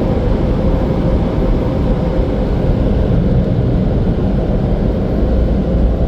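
Automatic car wash machinery running, heard from inside the car: a loud, steady rushing noise with a deep rumble and a faint steady whine.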